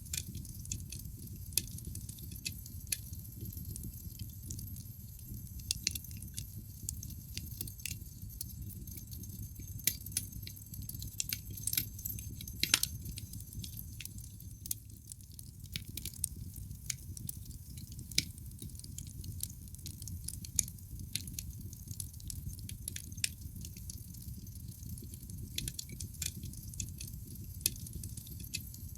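Wood fire in a fireplace crackling, with irregular sharp pops and snaps from the burning logs over a steady low rumble of the flames; one louder pop about halfway through.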